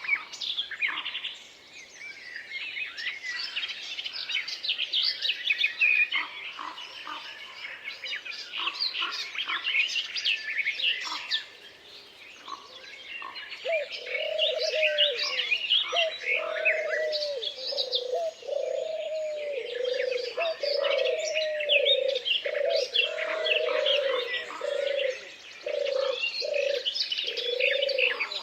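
A chorus of forest songbirds chirping and trilling together. About halfway through, a low cooing call joins in, repeated roughly once a second.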